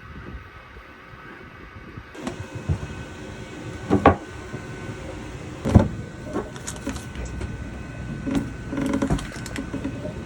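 Irregular knocks and clunks of tools and covers being handled around a boat's engine as it is opened up to change the raw water impeller, the loudest knocks about four and six seconds in and a quick cluster near the end.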